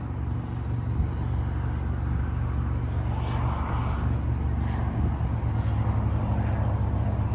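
Airplane engine drone, a steady low hum that grows slightly louder over the first second or two and then holds.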